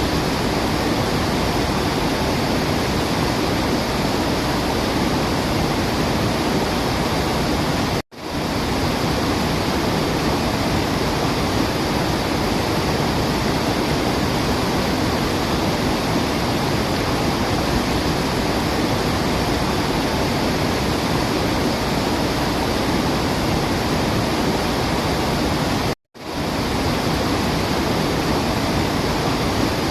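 Steady rushing of a waterfall, an even wash of falling water with no birdsong audible. It cuts out abruptly twice, about eight seconds in and again near the end, each time swelling back within half a second.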